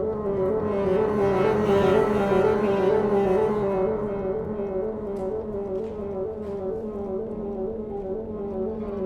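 Contemporary classical chamber music for solo bassoon with flute, clarinet, harp, piano and string trio: a rapidly wavering, repeated figure in the middle register over a sustained low note.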